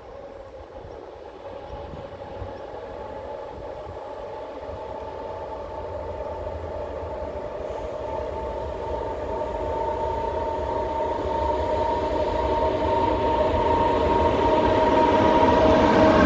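LE 5100 kW electric locomotive hauling a train as it accelerates, its steady electric whine rising slightly in pitch over a low rumble, growing steadily louder throughout.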